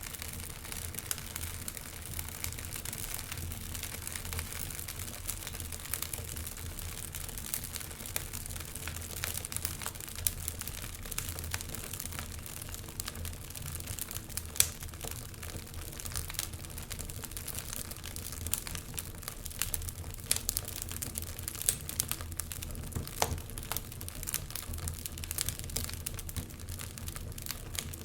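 Wood fire in a fireplace crackling, with irregular small pops and one sharper snap about halfway through, over a steady low rumble.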